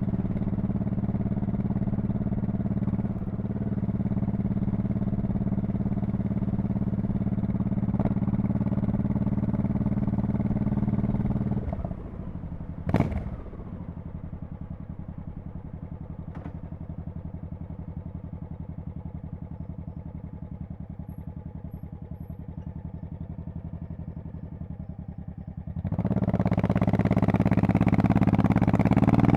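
Honda Shadow Spirit VT1100C's V-twin engine with raw exhaust sound. It runs steadily under way, then the throttle closes about 12 s in, with a single sharp click a second later. It settles to a low idle, then revs up and accelerates near the end.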